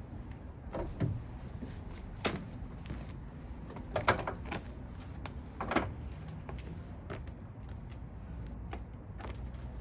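Irregular knocks and clicks over a low steady hum, the loudest about 1, 2, 4 and 6 seconds in.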